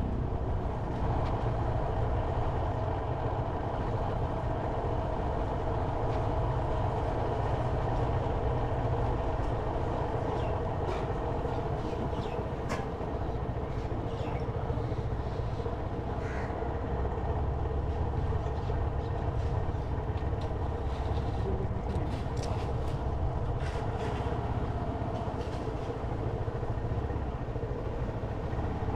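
Motorcycle engine running steadily while riding, under a constant low rumble, with a few short, higher-pitched sounds on top.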